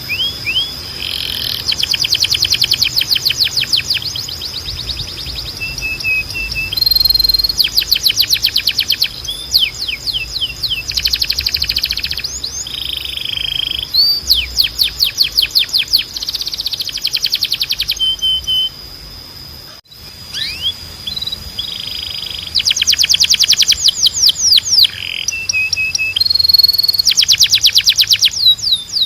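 Timbrado canary singing: long fast trills of rapidly repeated notes, alternating with short sliding whistles and brief held notes. The song stops briefly about twenty seconds in.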